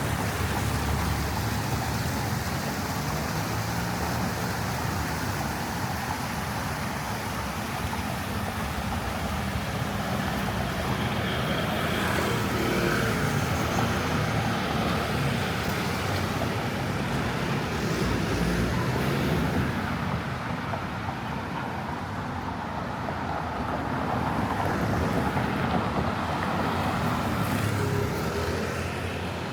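Road traffic: cars and other motor vehicles running along a city street, a steady rumble that rises and eases as vehicles go by.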